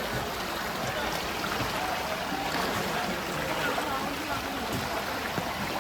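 Floodwater sloshing and splashing in a steady stream of noise, with faint voices in the background.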